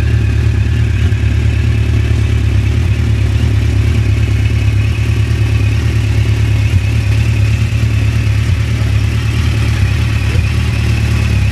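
Suzuki GSX1400's inline-four engine idling steadily through Yoshimura aftermarket exhausts, with a deep, even exhaust note.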